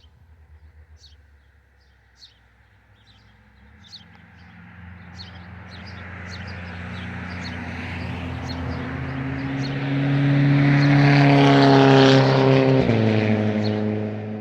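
A motor vehicle approaches and drives past. Its engine hum grows louder over several seconds, then drops sharply in pitch as it passes near the end and fades away. Small birds chirp briefly and repeatedly throughout.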